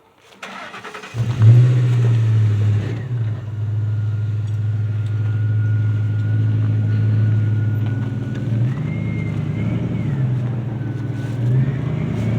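An engine is cranked for about half a second, catches, and settles into a steady run. A thin whine above it holds one pitch, then rises and falls a couple of times near the end.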